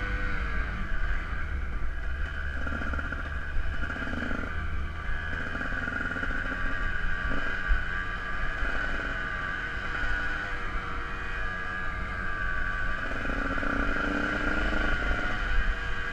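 Dirt bike engine running under way, its pitch rising and falling a little with the throttle, over a steady low rumble.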